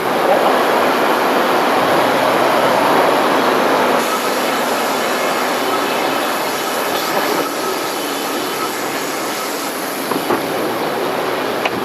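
Sawmill running as its blade cuts through a log: a loud, steady mechanical noise, slightly stronger in the first few seconds, with a few short knocks near the end.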